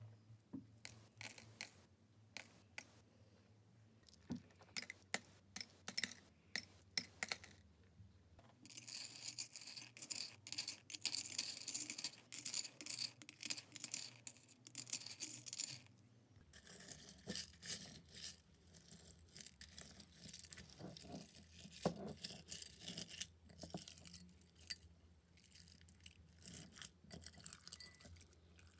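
Slime-making handling sounds: scattered sharp clicks and taps of containers and tools, then a dense scratchy hiss from about nine to sixteen seconds in, followed by irregular crackling and clicking as the mixture is worked.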